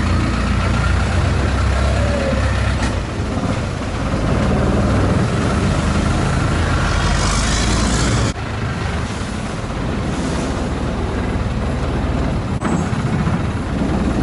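Long-tail boat engine running steadily under way, a loud low drone with hiss, dropping slightly in level about eight seconds in.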